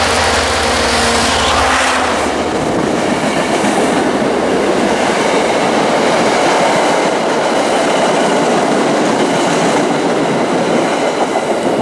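MBTA diesel commuter train passing directly beneath. The locomotive's engine hum is heard for about the first two seconds, then bi-level passenger coaches roll by with a loud, steady noise of wheels on rails.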